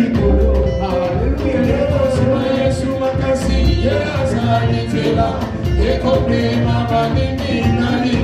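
Live church praise band playing an upbeat song with a steady drum beat, bass and guitar, with voices singing.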